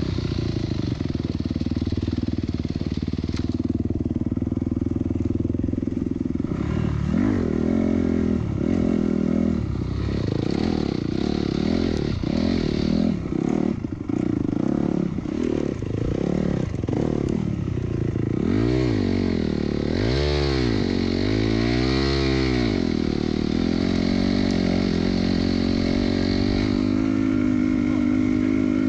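Dirt bike engine running under throttle, its pitch rising and falling as it revs. There are many quick blips through the middle and several big rev-ups and drops, then a steadier pitch near the end.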